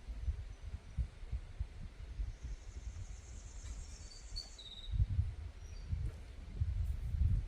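Outdoor wind buffeting the microphone in uneven gusts, with a faint insect buzz and a few short bird chirps in the middle.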